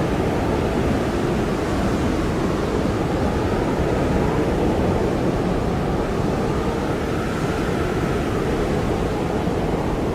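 Blizzard wind blowing steadily, a dense low rush with a faint wavering whistle running through it.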